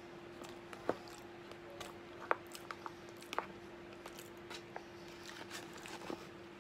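Close-up chewing and mouth noises of a man eating chickpeas with mayonnaise, with several sharp clicks of a metal fork against the bowl, over a steady low hum.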